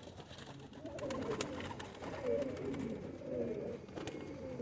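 Domestic white pigeons cooing, several coos one after another, with a few light clicks in between.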